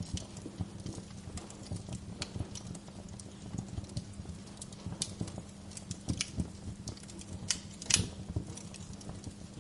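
Wood fire burning in a fireplace, crackling with irregular sharp pops and snaps over a low steady rumble; the loudest pop comes about eight seconds in.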